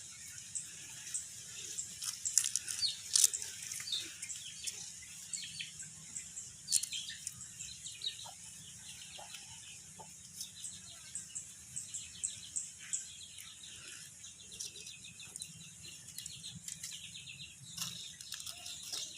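Small birds chirping in quick repeated series, with scattered clicks and rustling sounds throughout.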